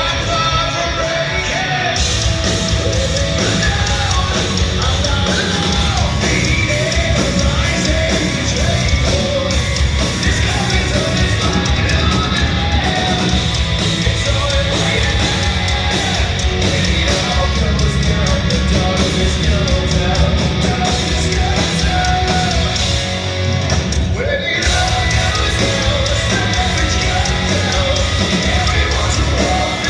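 Live hard rock band playing loud, with distorted electric guitars, bass, drums and a sung and shouted lead vocal. About two seconds in the full band comes in with crashing cymbals. About three quarters of the way through there is a short break where the cymbals drop out before the band comes back in.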